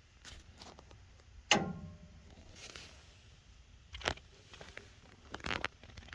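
Copper water pipes ticking and banging: a few light ticks, then a loud knock about a second and a half in that rings briefly, a sharp click about four seconds in and a short run of clicks near the end. The cause is uncertain, either thermal expansion of the copper pipe or water hammer.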